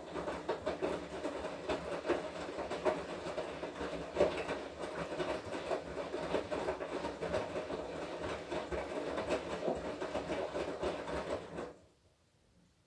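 Washing machine drum turning during a wash cycle: a steady motor hum with laundry and water churning and rattling in the drum, stopping suddenly about a second before the end, as the drum pauses between turns.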